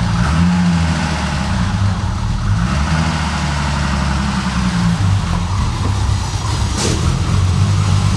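Freshly built Nissan RB30DET turbocharged straight-six running on its first startup, its idle wavering unevenly. A brief hiss comes near the end.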